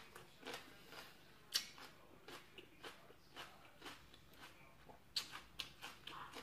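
A person chewing crunchy raw vegetables close to the microphone: soft, irregular crunches, one or two a second.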